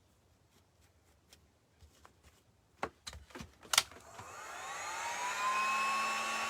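A few clicks and knocks, then a small handheld hair dryer switched on about four seconds in: its motor whine rises in pitch as it spins up and settles into a steady blowing hum, used to dry a coat of acrylic paint.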